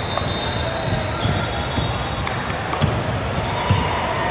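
Basketballs bouncing on a gym court, irregular thuds over the steady background din of a crowded gym.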